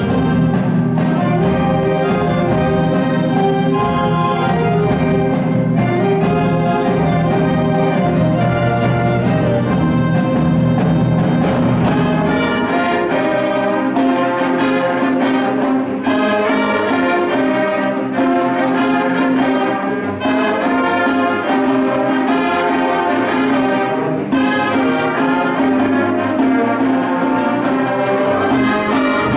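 High school concert band playing, brass to the fore; the held low notes beneath the melody change about twelve seconds in.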